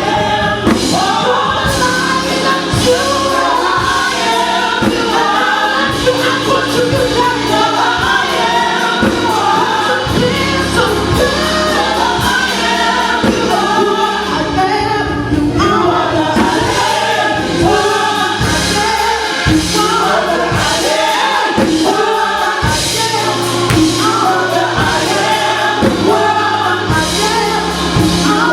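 Gospel worship song with a choir singing over a full band with bass and drums.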